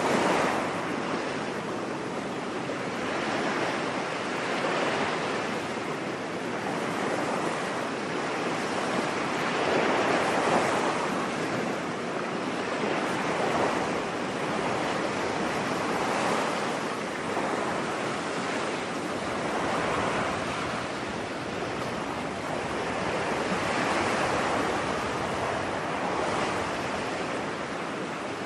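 Ocean surf washing onto a beach, a steady noise that swells and eases every few seconds as the waves break.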